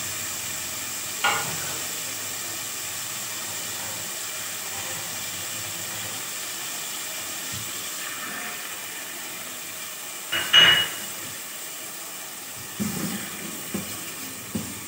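Chopped tomatoes and whole spices sizzling steadily in hot oil in a pot. Water is poured in partway through, with a louder brief splash-and-clink about ten seconds in and a few small knocks near the end.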